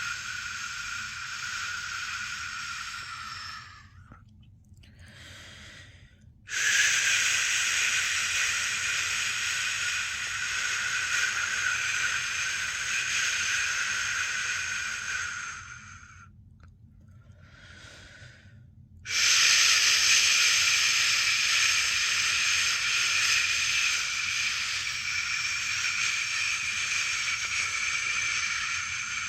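A person's long, steady 'shhh' shushing, the sound used to lull a newborn to sleep: three shushes, each several seconds long, with two short pauses holding faint breaths, about four and sixteen seconds in.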